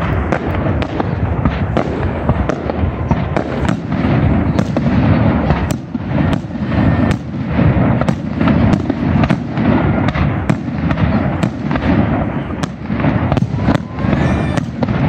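Fireworks display: aerial shells bursting one after another in a steady barrage, several sharp bangs a second over a continuous low rumble.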